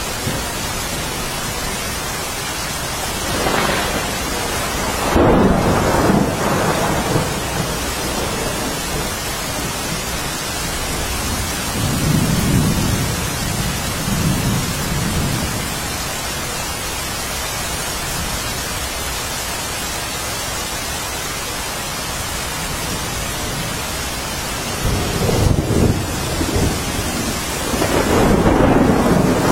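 Steady heavy rainfall with thunder rumbling in three swells: about four to six seconds in, around twelve to fourteen seconds, and again near the end.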